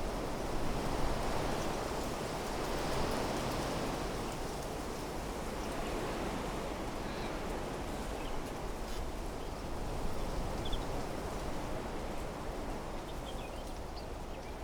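Wind blowing through trees, a steady rushing that swells early and then eases, with a few faint, brief bird chirps.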